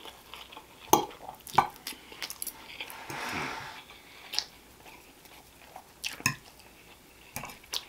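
Close-miked eating of angel hair pasta: wet chewing and mouth smacks, with a handful of sharp clicks from a fork against the plate as noodles are twirled up. A softer drawn-out noisy sound comes about three seconds in.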